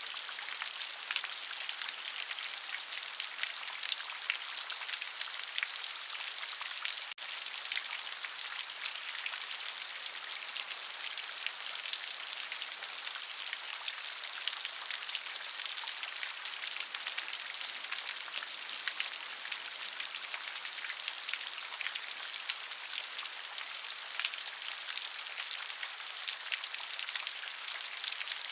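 Steady rain: a dense patter of drops over an even hiss, with a split-second dropout about seven seconds in.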